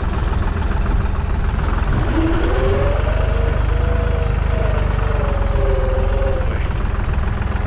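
Deutz 55F tractor engine running steadily while pulling a sweep cultivator, with a wavering higher note rising and falling over the middle few seconds.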